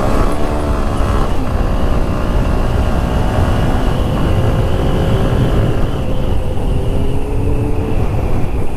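Benelli 600i inline-four motorcycle engine running under way, its pitch falling over the first second or so and then holding steady, under a constant low rushing noise.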